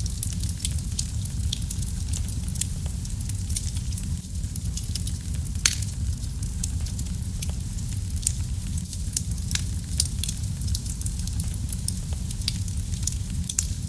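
Wood fire burning in a fireplace: a steady low rumble of the flames with frequent irregular crackles and pops, one sharper pop a little before the middle.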